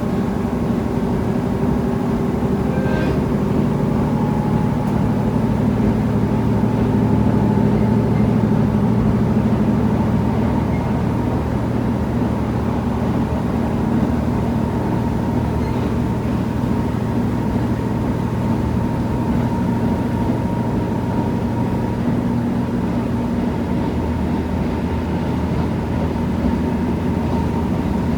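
KiHa 75 diesel multiple unit running on the line, heard from inside the car: a steady diesel engine drone with wheel and rail noise. It swells a little about a third of the way in, and the engine note shifts near the end.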